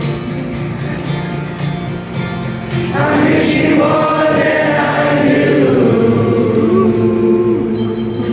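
Live rock band playing the end of a song, with long wordless sung notes over the instruments; the music swells louder about three seconds in.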